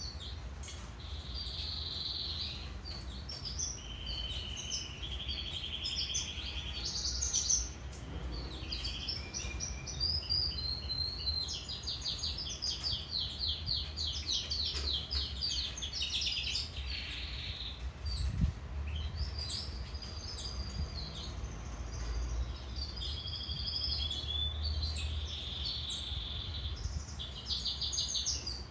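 Canary singing a long, unbroken song of fast trills and rolls, passing from one run of rapid repeated notes to the next, over a low steady hum.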